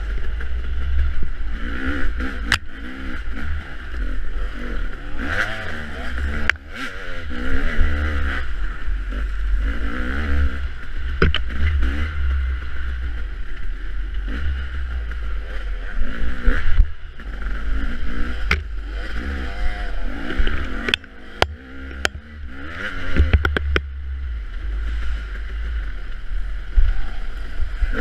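Off-road dirt bike engine revving up and down again and again under a rider over rough ground, with a heavy low rumble and many sharp knocks, several in quick succession near the end.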